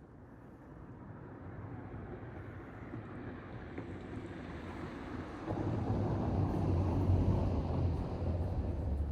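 A road vehicle approaching and passing close by on the street, its engine and tyre noise growing steadily louder, loudest about two-thirds of the way in and starting to fade near the end.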